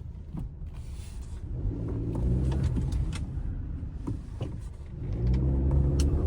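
Honda Civic RS Turbo's 1.5-litre turbocharged four-cylinder engine running under light throttle while the car is driven on full left lock. The engine note swells about one and a half seconds in and again near the end. No CV-joint clicking is heard on the left turn.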